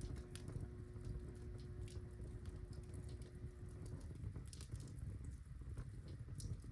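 Birchwood fire crackling in a fireplace: scattered sharp pops and snaps over a low, steady rumble of the flames.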